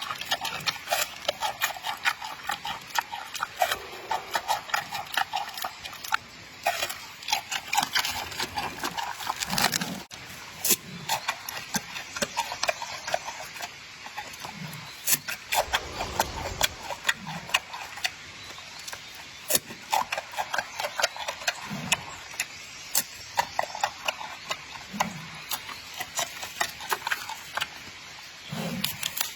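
Giant panda peeling and chewing bamboo shoots: a run of irregular sharp cracks and crunches.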